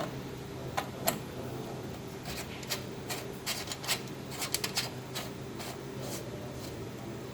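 Irregular series of sharp clicks and light knocks, thickest in the middle of the stretch, over a steady low hum.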